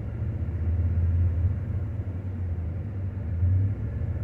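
Car engine held steady at a raised idle of about 2,000 RPM, running with a constant low rumble, to charge a dead battery through jumper cables in deep cold.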